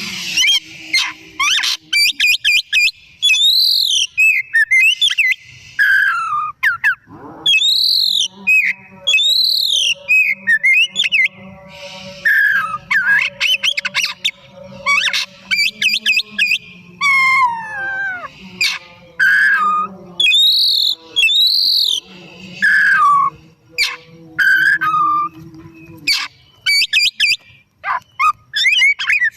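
Oriental magpie-robin (kacer) singing vigorously. A loud, varied run of whistled slurs rising and falling in pitch, rapid trills and short buzzy notes, phrase after phrase with brief pauses.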